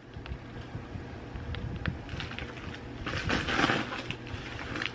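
Packaging and products being handled and rummaged through, with scattered small clicks and a louder rustle about three seconds in.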